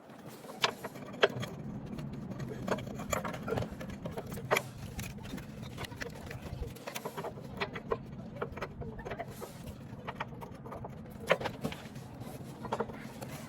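Scattered metallic clicks, knocks and clanks, like hand tools working on battery hardware, over a steady low hum.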